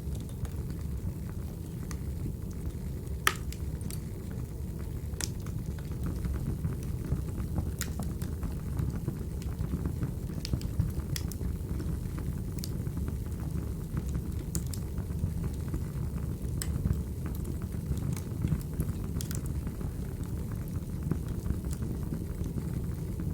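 Wood fire burning: a steady low rumble with sharp crackles and pops scattered at irregular intervals, one every second or two.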